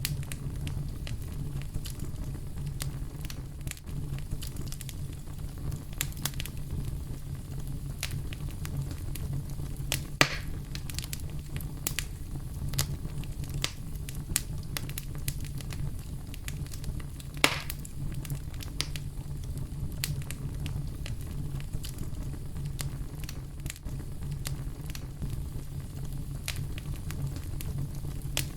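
Campfire crackling over a steady low brown-noise rumble, with scattered small snaps throughout and two louder pops about ten seconds in and again about seventeen seconds in.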